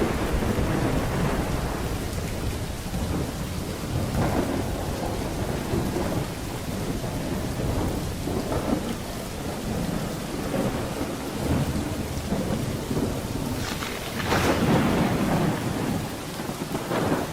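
Thunderstorm: steady heavy rain with rolling thunder, rumbles swelling several times and loudest about fourteen seconds in.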